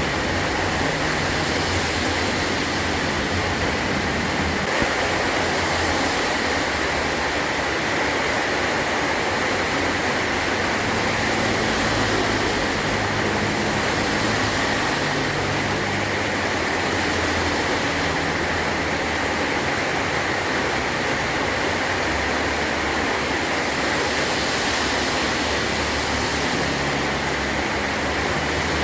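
Heavy rain falling steadily on a metal tin roof, a dense, even hiss.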